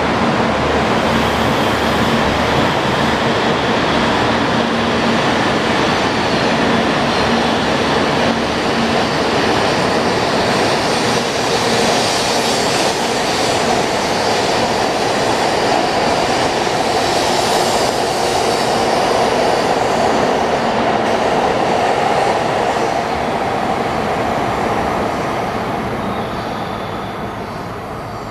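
Kyushu Shinkansen 800 series electric trainset pulling out of the station, a steady loud rush of wheel and running noise that fades over the last several seconds as it leaves.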